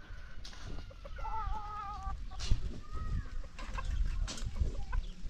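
Chickens clucking, with one drawn-out, wavering call a little over a second in and shorter calls after it.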